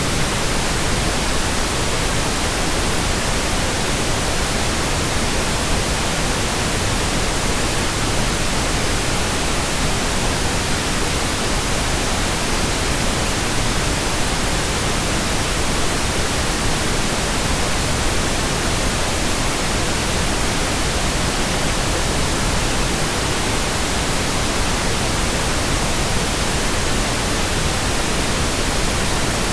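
Steady, unchanging white noise: an even hiss spread across all pitches, with no changes or breaks.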